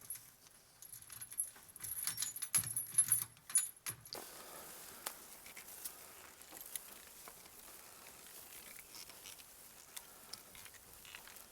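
Light metallic jingling and clicking for about four seconds, then only faint hiss with a few scattered small clicks.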